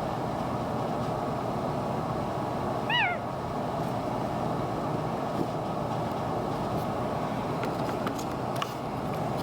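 An Indian ringneck parrot gives one short call that falls in pitch, about three seconds in, over a steady background hum. A few faint clicks come near the end.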